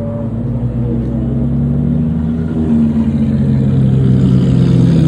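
Car engine running, its pitch drifting slightly up and down while it grows gradually louder.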